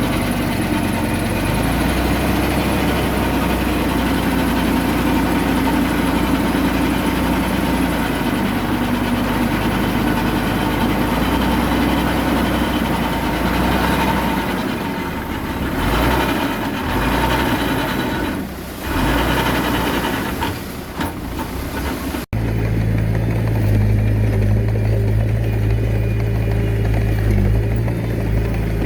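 Diesel engine of heavy earthmoving machinery, a Komatsu D21A mini bulldozer, running steadily, its sound wavering and dipping for several seconds past the middle. About two-thirds of the way in the sound breaks off abruptly and gives way to a deeper, steady engine hum.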